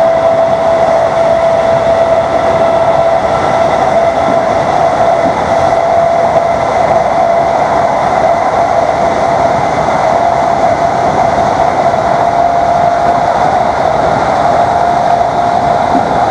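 Class 321 electric multiple unit's traction motors whining at a steady pitch while under way, creeping slightly higher near the end, over loud running noise from the train and its wheels on the rails.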